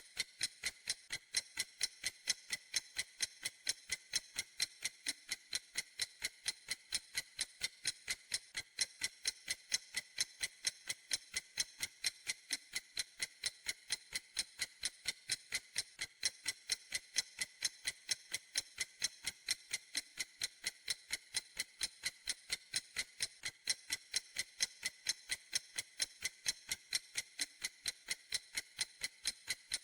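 A clock ticking steadily, with even, sharp, high ticks at about three a second.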